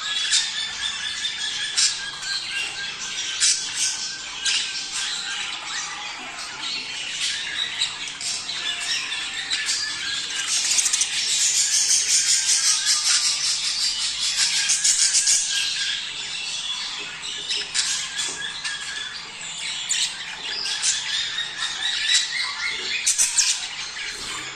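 A flock of budgerigars chattering and warbling, many short chirps and squawks overlapping without a break. The chatter grows busier and louder for a few seconds in the middle.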